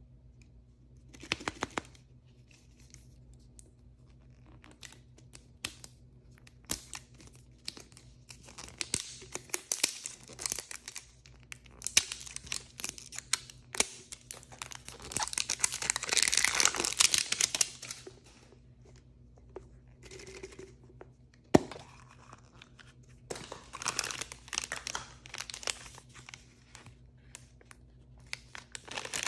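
Plastic blind-bag packaging being torn open and crinkled by hand, in irregular bursts of rustling. The longest stretch of tearing and crinkling comes in the middle, and a single sharp click follows a few seconds later.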